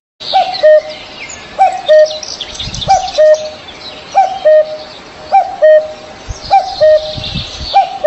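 A bird repeating a short two-part call with a falling first note, about once a second, over a busy background of high-pitched chirping from other birds.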